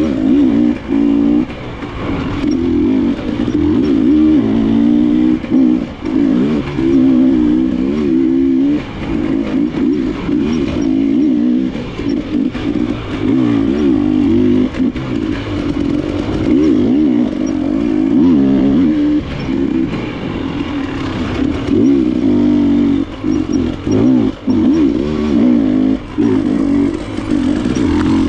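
Enduro dirt bike engine running hard on a trail, its pitch rising and falling continuously as the throttle is worked, with brief dips every few seconds as the throttle is chopped.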